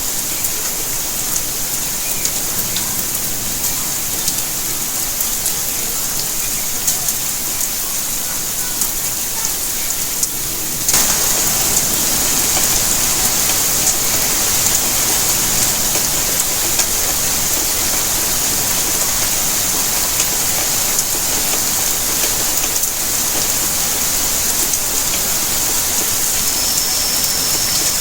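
Steady rainfall, an even hiss with many small drop ticks. About eleven seconds in it abruptly becomes louder and fuller, as if cut to a heavier stretch of rain.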